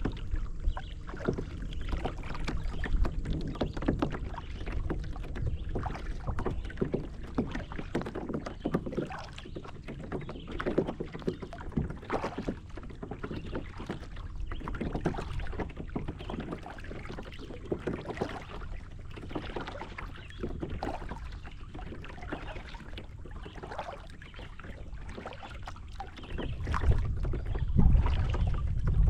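Kayak paddling on a river: the paddle blades dip and pull through the water with irregular splashing and dripping over a steady low rumble. The rumble grows louder near the end.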